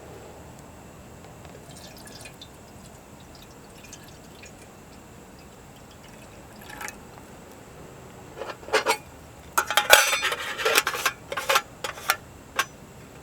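Small clinks and knocks with a dripping, liquid sound, in a quick cluster over about four seconds after a long quiet stretch.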